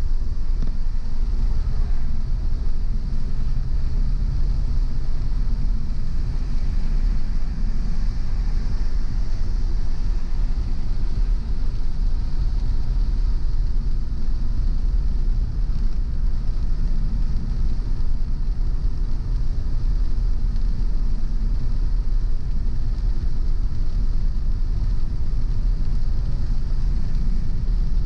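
A car driving along at a steady pace: a low, even rumble of road and engine noise with a light hiss above it.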